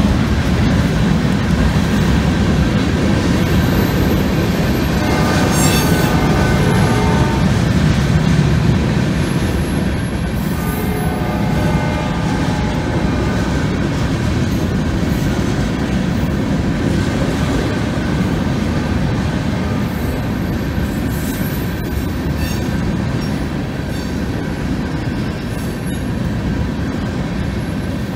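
Freight train of covered hopper cars rolling past close by, a steady rumble and clatter of steel wheels on the rails, with the GE B36-7 diesel locomotives' engines loudest at the start and easing off after several seconds. Wheels squeal on the rails twice, about five seconds in and again about six seconds later.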